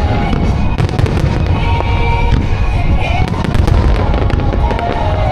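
A dense starmine barrage of fireworks, with rapid bangs, booms and crackling. A pop song plays over loudspeakers in sync with the bursts.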